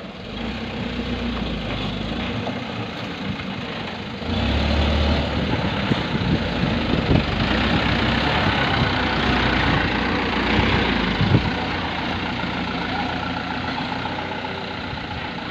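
Dump truck engine running, growing louder and heavier about four seconds in, then easing back near the end.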